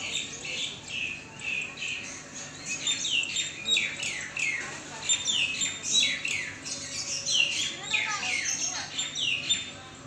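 Bird calls: a rapid run of short, high calls that each slide down in pitch, several a second, growing busier after about three seconds.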